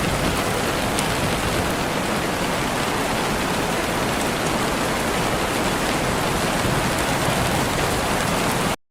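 Steady rain falling, an even hiss that cuts off abruptly into silence near the end.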